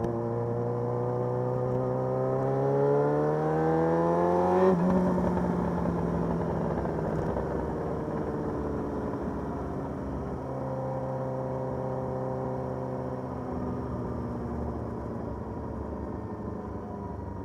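Motorcycle engine accelerating, its pitch climbing steadily for about five seconds. The pitch then breaks off sharply, and the engine settles into a lower drone that slowly falls and gets quieter as the bike eases off.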